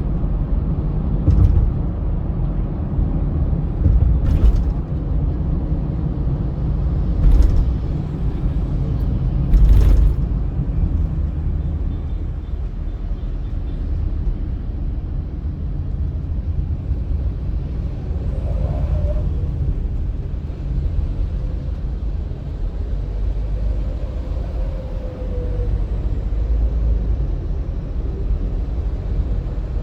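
Steady low road rumble of a car driving on a highway, with a few short knocks in the first ten seconds.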